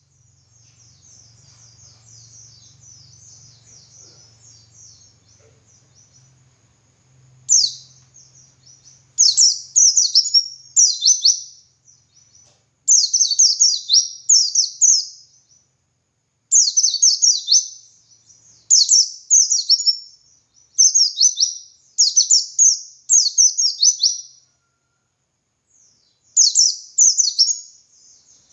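Pleci dakun, a white-eye, singing: soft rapid high twittering at first, then from about a third of the way in loud, fast phrases of high descending notes, each a second or two long, repeated with short pauses. This is the long continuous 'ngalas' song used to tutor other caged white-eyes.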